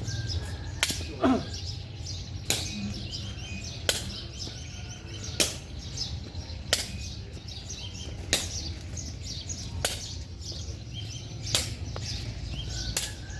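Sharp hits about every one and a half seconds, the regular back-and-forth of a sports rally, over a steady low rumble.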